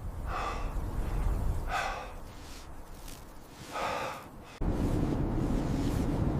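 A man breathing hard: three heavy, gasping breaths about a second and a half apart, over a low wind rumble. A little over four and a half seconds in, a loud, steady blizzard wind noise cuts in suddenly.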